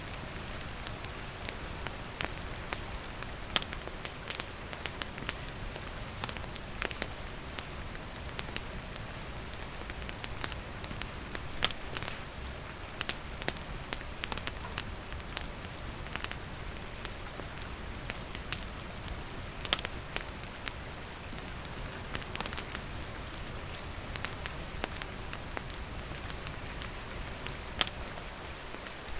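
Steady rain pattering on surfaces, mixed with a wood fire crackling: irregular sharp pops scattered throughout.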